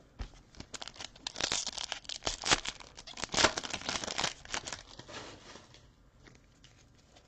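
Foil wrapper of a pack of football trading cards being torn open and crinkled: a run of sharp crackles over about four seconds, fading to quieter handling near the end.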